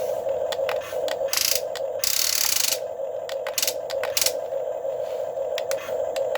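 Huina 1550 RC excavator's small electric motors and gearboxes whining in short runs of about half a second each, with many sharp clicks. A short hiss comes twice, the longer one about two seconds in.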